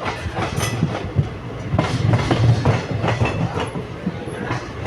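Train running on the track: a steady low rumble with irregular clacks from the wheels on the rails.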